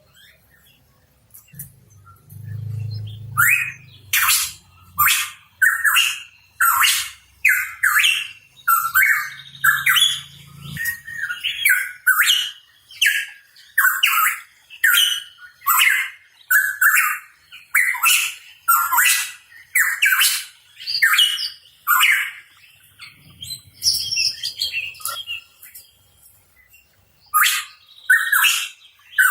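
A pitohui calling: a long run of short, rough calls repeated about once a second, then a pause of a few seconds and a few more calls near the end.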